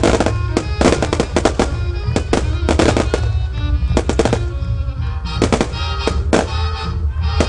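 Fireworks display: a dense, irregular run of bangs and crackles from bursting shells, several a second, with music playing throughout.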